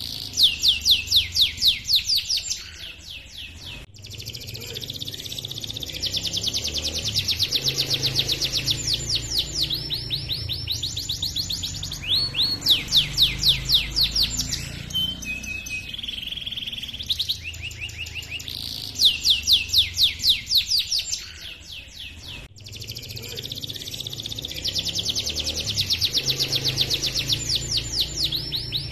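Domestic canary singing a long, rolling song: fast trills of high, rapidly repeated notes, broken by short pauses. The same stretch of song comes round again about halfway through, as in a looped recording.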